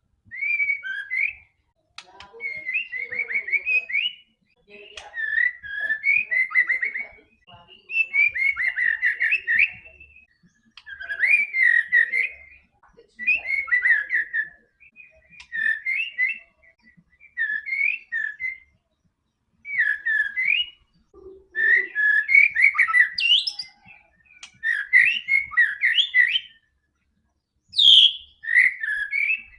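White-rumped shama (murai batu) singing in full, vigorous song: about a dozen rapid, varied whistled phrases, each a second or two long, separated by short pauses.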